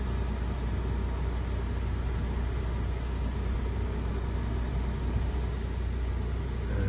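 Nissan Elgrand E50's engine idling with a steady low rumble, heard through the open driver's door.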